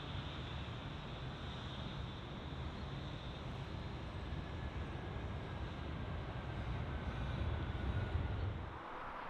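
Jet airliner engines running with a steady deep rumble and a faint whine, growing a little louder toward the end. The rumble breaks off abruptly shortly before the end, leaving a steady hiss.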